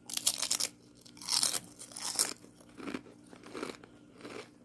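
Close-miked crunching of salt and vinegar potato chips: two loud crackling bites in the first half, then softer, steady chewing.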